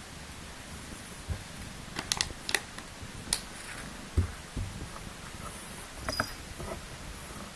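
Soft rustling with a few sharp clicks and light thumps over a steady hiss, and a brief faint squeak about six seconds in.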